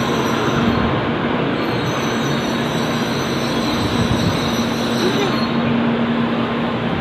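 Shinkansen bullet train running: a loud, steady rush of noise with a low steady hum that fades in the middle and returns.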